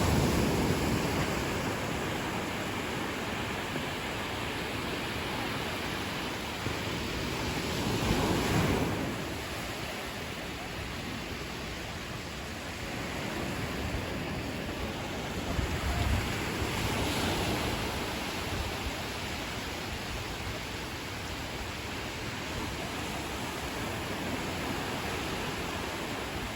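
Ocean waves breaking and washing on a beach, a steady surf hiss with louder swells about eight seconds apart, near the start, around eight seconds in and around sixteen seconds in. Wind on the microphone adds low rumble.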